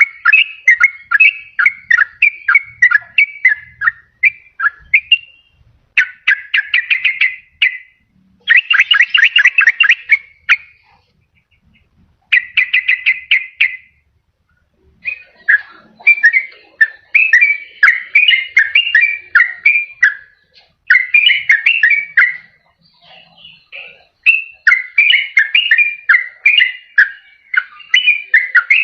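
Yellow-vented bulbul (trucukan) singing loud, bubbling phrases of quick notes. Three fast rattling trills (ropel) come in the first half, and a brief pause follows about halfway through before the chattering song resumes. This is a lure call used to draw in wild bulbuls or prompt a quiet caged one to sing.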